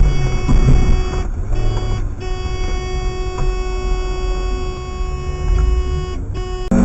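Car driving with a steady low engine and road rumble, and a car horn held in one long blast for about four seconds in the middle. The sound changes abruptly near the end.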